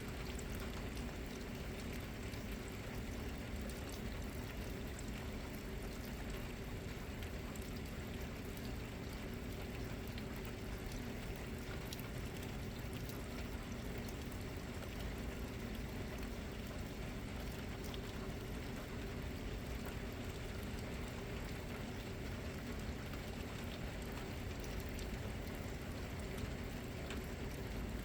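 Steady rain with water running and pouring, an even unbroken wash of sound.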